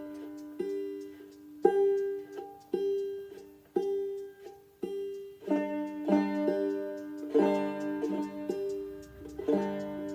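Banjo played clawhammer style: single plucked notes ringing out about once a second, then denser rhythmic picking of several strings from about halfway through.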